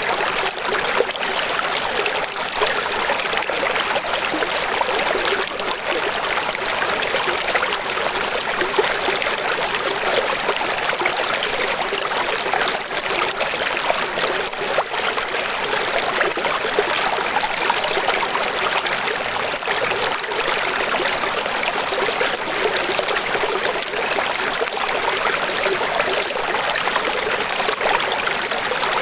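Steady rushing of running water, an even hiss with no pauses or distinct events.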